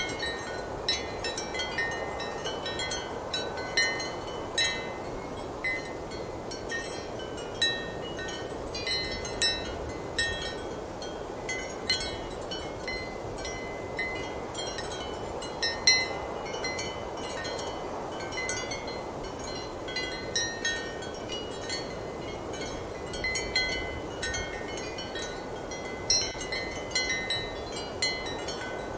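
Ceramic wind chimes clinking irregularly and often, over a steady rush of strong wind.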